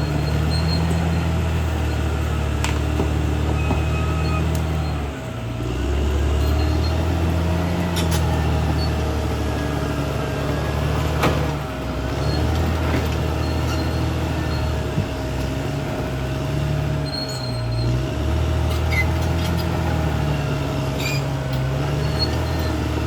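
Caterpillar D6R XL bulldozer's diesel engine running under working load, its note dipping and picking up again a few times, with a few sharp knocks.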